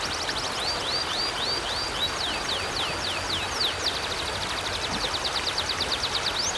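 River water flowing steadily, with a bird singing a continuous string of quick, high, sliding chirps over it; the notes change pattern a couple of times and come faster after the middle.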